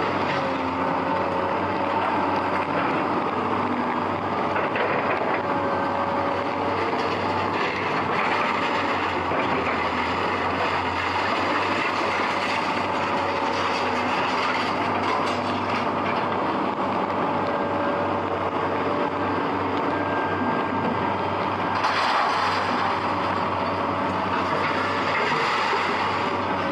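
Heavy machinery working scrap metal: a steady, loud mechanical din with clattering and short thin metallic squeals that come and go.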